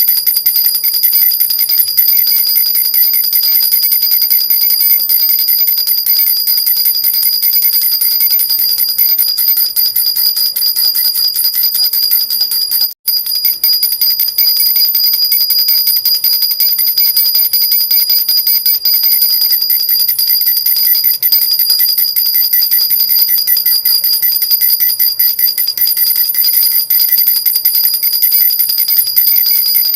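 Silver jhunjhuna, a metal baby rattle with small bells, shaken steadily in a fast, continuous jingle with a high ringing tone. It breaks off for an instant about thirteen seconds in.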